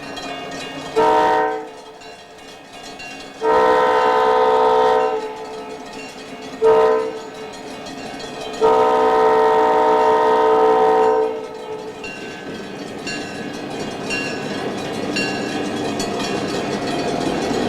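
Locomotive air horn sounding four blasts, short, long, short, long, then the rumble of the train growing louder as it approaches.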